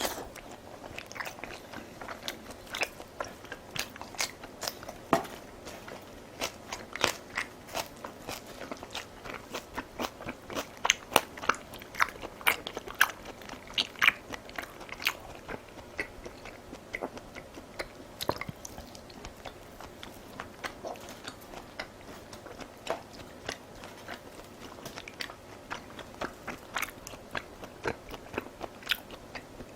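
A person chewing and biting crunchy food close to the microphone: irregular sharp crunches and wet mouth clicks, a few of them loud.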